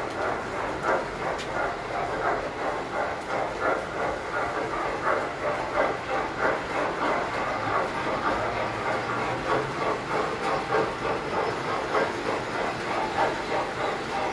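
Tinplate model train running on its track: a steady metallic rolling clatter that pulses quickly and evenly.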